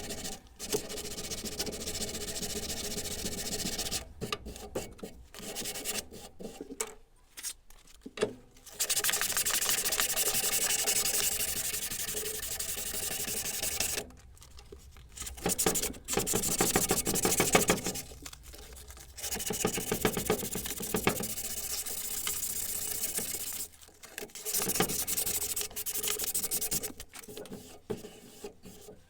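Abrasive tool work on steel, a rasping rub in several runs of a few seconds each, broken by short pauses.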